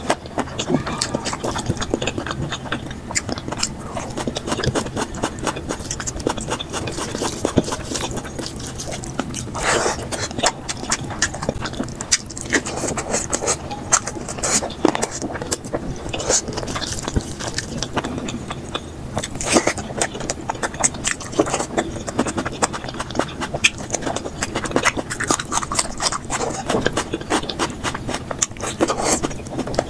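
Eating sounds sped up to double speed: rapid chewing, lip-smacking and mouth clicks, with scraping of food on a plate.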